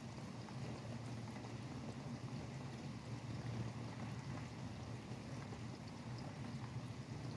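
Steady rain with scattered light drop ticks, over a constant low rumble of highway traffic.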